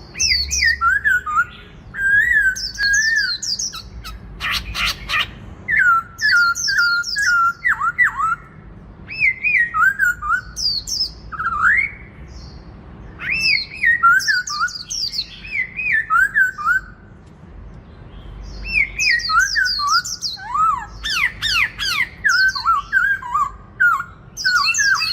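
Black-throated laughingthrush singing loud phrases of rich, sweeping whistles, a few seconds each, with short pauses between them. Brief harsh rasping notes come in about four seconds in and again near the end.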